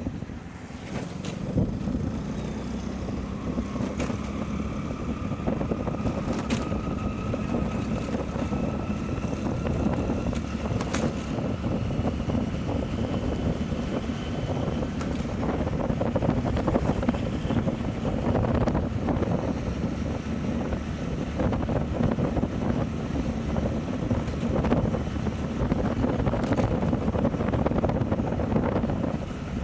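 Motorcycle riding at a steady pace, its engine and road noise mixed with heavy wind noise on the microphone; a faint whine rises slowly in pitch through the first half.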